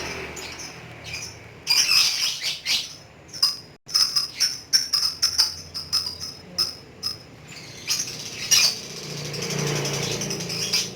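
Lovebird in full 'ngekek' chatter: fast, high-pitched chirps in quick, dense runs, loudest from about two seconds in until about nine seconds.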